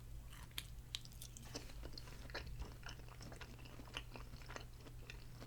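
A person chewing a roasted baby carrot up close to the microphone: quiet, irregular crunching and small mouth clicks.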